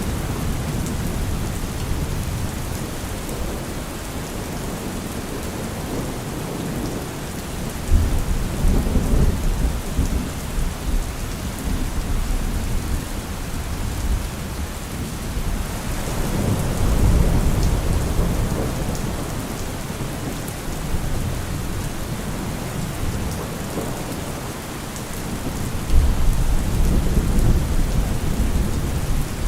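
Steady rain falling, with low rolls of thunder rumbling in and out about a third of the way in, around the middle and near the end.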